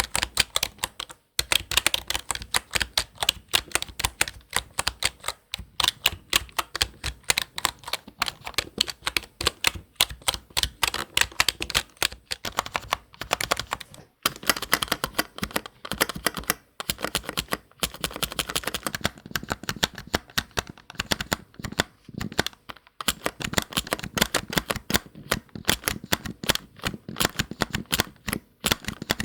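Fast, continuous typing on a computer keyboard, a dense run of crisp key clicks with a few brief pauses.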